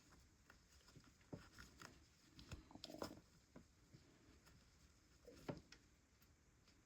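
Near silence with faint, scattered small clicks and rustles of yarn and a crocheted piece being handled while sewing it up.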